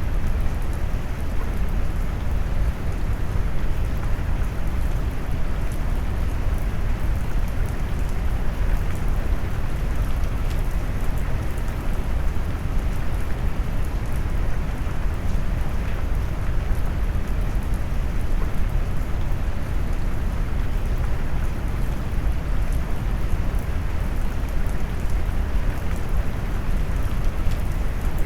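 Steady rain noise mixed with brown noise: a deep, even rush weighted toward the low end, with faint scattered raindrop ticks on top.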